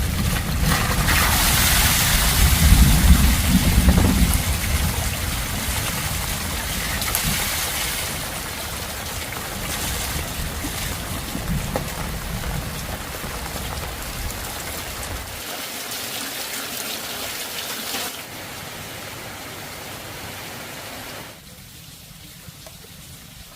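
Steady rain falling, with a low rumble of thunder in the first few seconds. The rain grows quieter in steps in the second half.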